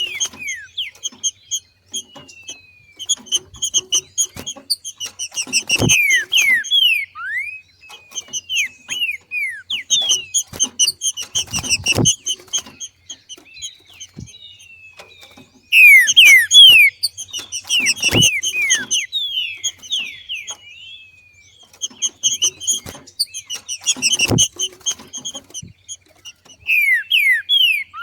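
Green-winged saltator (trinca-ferro), a female in breeding condition, giving its 'macheado' call. It comes as rapid chattering chirps mixed with downward-slurred notes, in loud bursts of a few seconds with short pauses between them.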